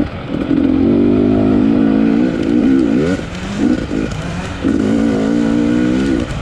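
250-class motocross bike engine under hard throttle, held at high revs, with a quick rise and fall in pitch about three seconds in and a brief rough back-off before a second long pull that drops off near the end.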